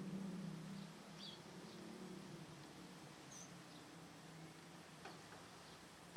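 A few faint, short, high bird chirps, with a low steady hum fading away over the first second or two.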